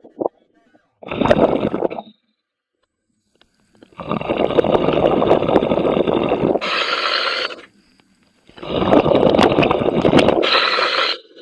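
Scuba diver breathing through a regulator underwater. Two long exhalations come out as rushing, bubbling noise, and each is followed by a shorter, higher hiss of inhaling. There is a briefer burst about a second in.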